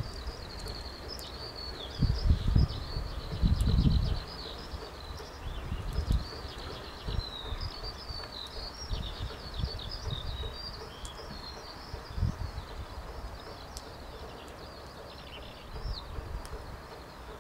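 A small bird singing close by, a rapid chattering run of high chirps and trills. Wind buffets the microphone in low gusts, loudest about two and four seconds in.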